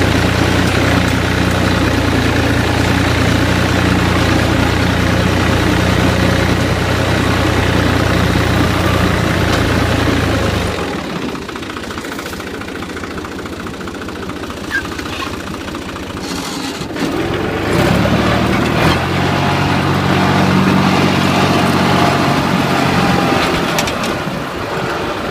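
New Holland Al-Ghazi tractor's diesel engine running steadily. About ten seconds in the engine sound falls away and stays quieter for several seconds, then it comes back with a rising pitch and runs steadily again.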